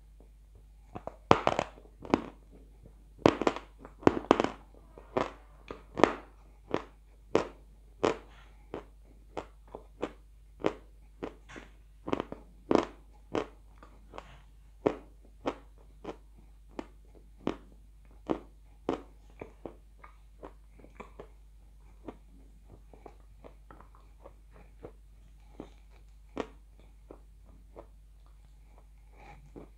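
Close-up crunchy chewing of edible blue Uzbek clay: sharp crunches about one or two a second, loudest in the first half and growing fainter toward the end.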